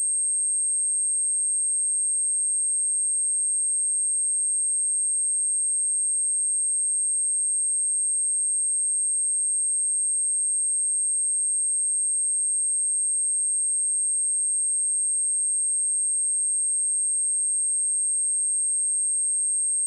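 A pure 8451 Hz sine test tone, a single high-pitched steady whistle, held at one pitch and level without a break.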